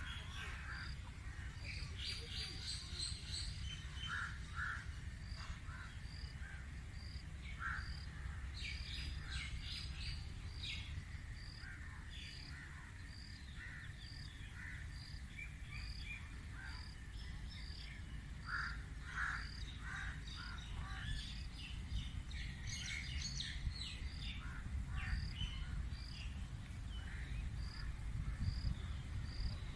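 Birds calling: scattered chirps, and one bird repeating a single high note about every 0.7 s, over a steady low rumble.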